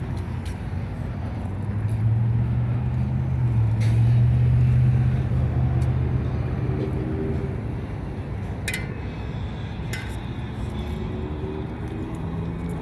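Street traffic: a vehicle engine hum that swells about two seconds in and fades away, with a couple of sharp clicks near the end.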